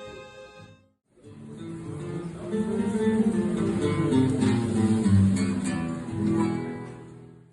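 Music: the sustained notes of one piece fade out about a second in and break off briefly. Acoustic guitar music, plucked and strummed, then comes in and fades away near the end.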